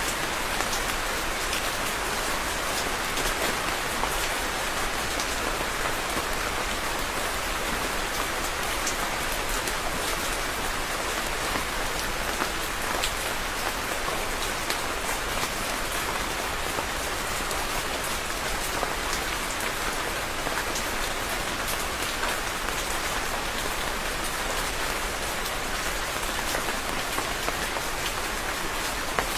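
Steady rain falling, an even hiss of many drops with fine individual drop ticks throughout.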